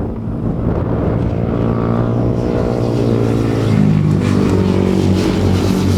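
Racing motorcycle engines running on track, a steady pitched engine note that drops a little past halfway and then holds.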